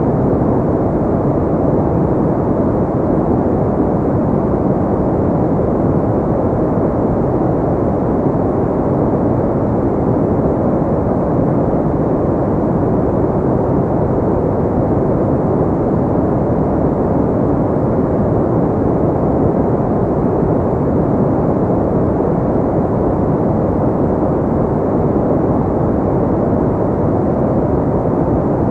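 Steady pink noise: an even, unchanging rush weighted toward the low and middle range, dull rather than hissy.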